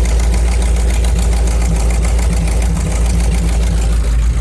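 Chrysler 318 V8 of a Cockshutt 555 combine, with a straight-pipe exhaust, running steadily at idle just after a cold start.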